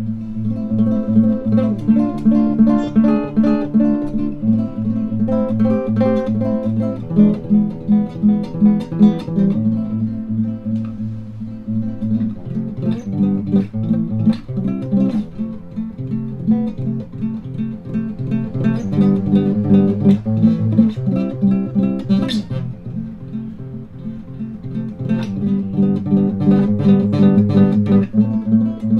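Acoustic guitar music: strummed and plucked chords repeating in a steady rhythm.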